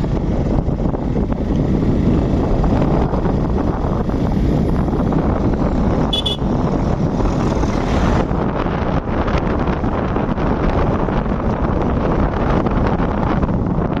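Steady wind rush over the microphone of a moving motorcycle, with road and engine noise underneath. A vehicle horn gives one short beep about six seconds in.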